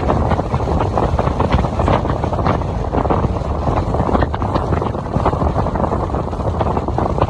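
Wind buffeting the microphone on a moving motorcycle, a loud steady rush with rapid flutter, with the motorbike's engine and road noise underneath.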